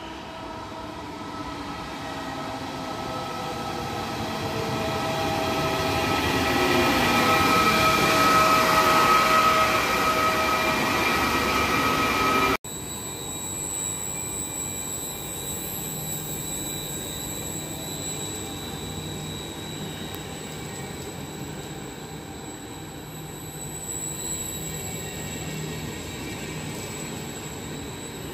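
Electric regional train with double-deck coaches pulling into the station: wheels and motors rising to a loud, steady whine with several squealing tones as it nears, then after an abrupt cut a steadier, quieter rumble of the coaches rolling slowly past with a faint high whine.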